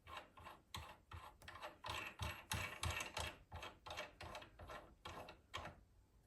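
A threading die being turned by hand down a bolt to chase its threads: a run of short, irregular metal clicks and scrapes, a few a second.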